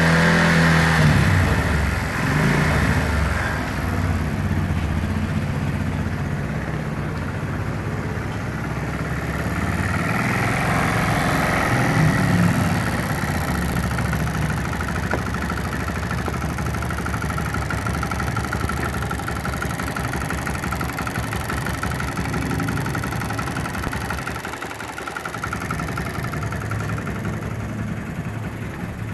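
Motorcycle engine running on a homemade HHO/gasoline-vapor carburetor, mostly at a steady idle, with a brief rise in revs about twelve seconds in.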